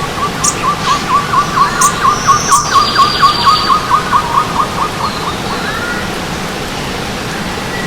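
A bird calling in a fast series of short repeated notes, about four a second, growing louder and then fading out about five seconds in, with a few higher chirps from other birds. Under it the steady rush of stream water.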